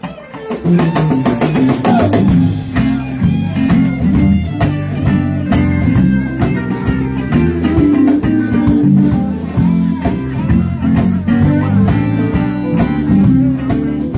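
Live blues-rock band playing, with electric guitar over bass and drums. The sound dips briefly at the start and the full band is back in about half a second later.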